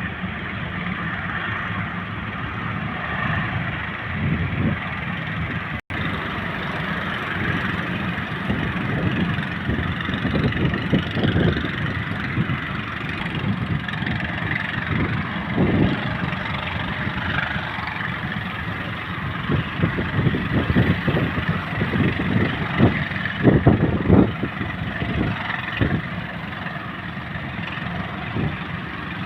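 Heavy ocean surf rushing steadily, with irregular gusts of wind buffeting the microphone.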